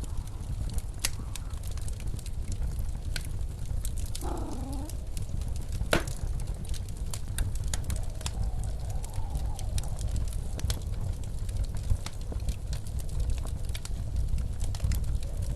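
Wood fire crackling with scattered sharp pops over the steady low rumble of blizzard wind. A faint wavering howl of wind rises and falls about four seconds in, and again a little past the middle and near the end.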